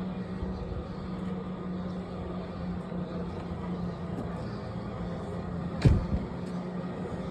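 Steady low mechanical hum over a constant background rumble, with one sharp knock about six seconds in.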